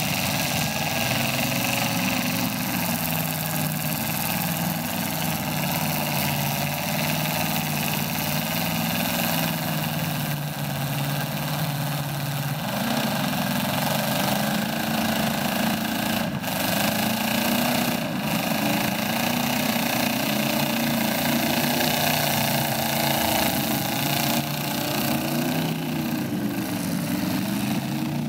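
Several demolition derby cars' engines running and revving together, their pitches rising and falling as the cars drive and ram. Two sharp bangs stand out a couple of seconds apart, a little past the middle.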